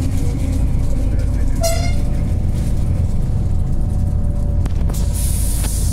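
Passenger train running, heard from inside the carriage as a steady low rumble, with one short horn toot about two seconds in. A high hiss starts near the end.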